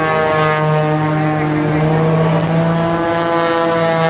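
Aerobatic propeller plane's piston engine and propeller droning at a steady pitch through a hammerhead turn.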